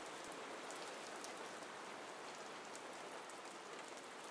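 Faint steady rain: an even hiss scattered with many small drop ticks.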